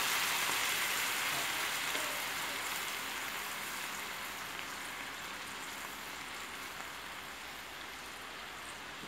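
Shrimp paste (bagoong) frying with sautéed garlic and onion in oil in a wok, just after the paste went in: a steady sizzle that slowly fades over the several seconds.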